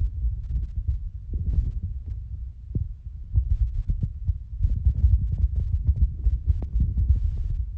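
Phone microphone handling noise: an uneven low rumble with frequent soft thumps and knocks as the phone is held and moved.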